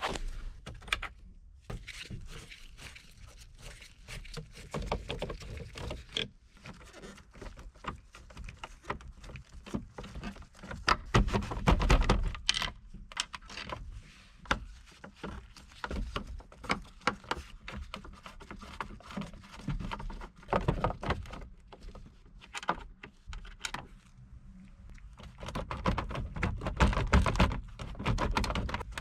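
Irregular clicking, tapping and rustling of hands working on parts, with a few louder clusters of knocks and clatter.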